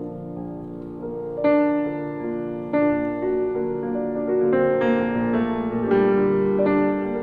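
Slow piano music: sustained notes and chords, with new notes struck about every second.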